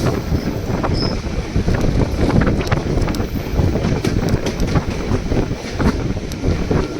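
Narrow-gauge passenger train running, with a rumble and a scatter of rattling clicks from the cars and rails, and wind buffeting the microphone.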